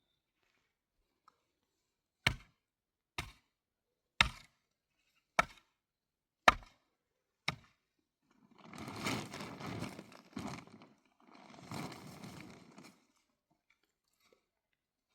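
Six sharp knocks, about one a second, like blows of a chop, followed by two stretches of scraping, rustling noise about two seconds each.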